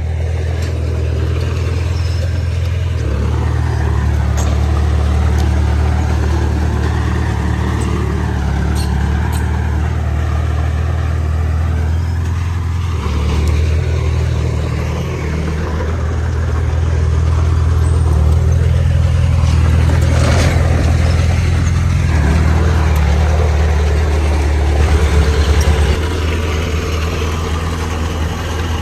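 Bulldozer diesel engine running steadily with metallic track clatter. It works harder for about ten seconds past the middle, then eases off, with a single clank about two-thirds through.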